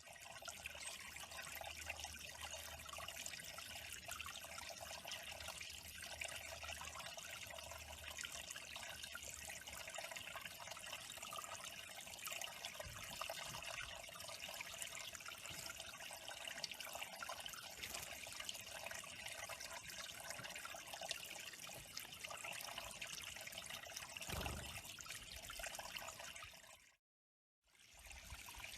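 Water trickling steadily at a bird pond. It breaks off briefly near the end.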